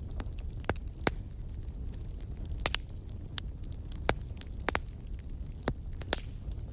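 Fire crackling: about ten sharp, irregular pops over a steady low rumble of the flames.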